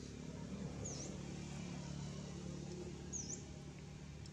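A bird chirping twice, two short high chirps a couple of seconds apart, each dipping and rising in pitch, over a steady low outdoor background hum.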